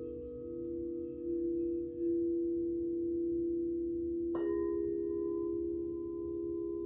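Several singing bowls ringing together in long, steady, overlapping tones. About four seconds in, a bowl is struck sharply, adding a higher ringing tone over the low hum.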